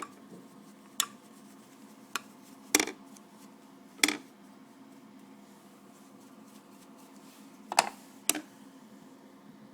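Scattered sharp clinks and clacks of hard objects being handled, about seven in all and irregularly spaced, over a faint steady hum.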